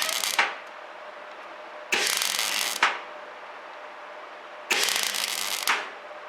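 Semi-automatic MIG welder laying short stitch welds on a steel patch plate: crackling arc bursts about a second long, one ending just after the start and two more about three seconds apart, each cut off with a sharp pop. A steady low hum runs between the welds.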